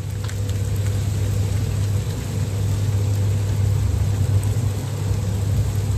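A motor vehicle's engine running steadily, a constant low rumble over a wash of noise.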